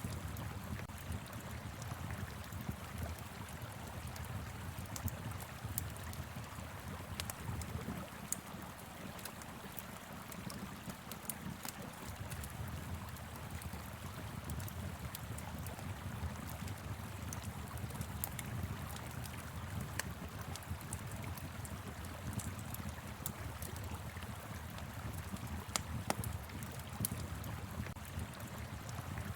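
River water rushing steadily, with a wood fire crackling: scattered sharp pops and snaps over it.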